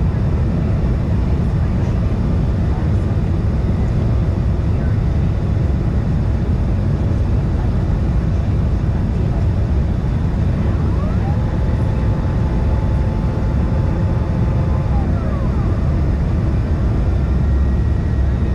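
Cabin noise inside a CRJ-550 regional jet in flight: a steady, loud rumble of engines and airflow. About two-thirds of the way through, a faint whine rises, holds for a few seconds and falls away.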